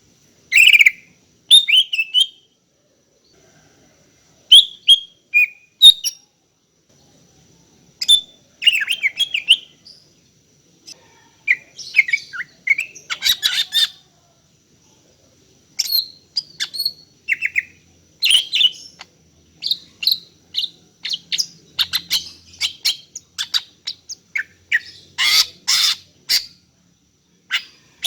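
A female greater green leafbird (cucak ijo) calling in short bursts of chirping notes, separated by gaps of a second or more. The calls come thicker and louder toward the end. These are the calls of a female in breeding condition calling to a male.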